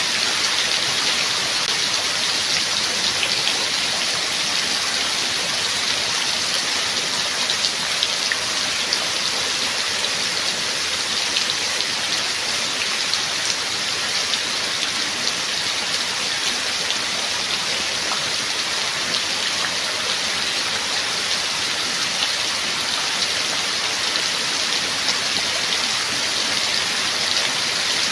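Steady heavy rain falling, an even hiss with many individual drops ticking on a surface.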